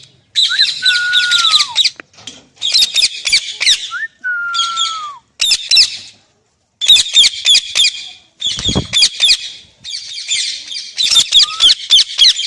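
Pet parrot screeching in a string of harsh, raspy calls of about a second each. Twice it whistles a clear note that slides down, and near the end it gives a short rising whistle.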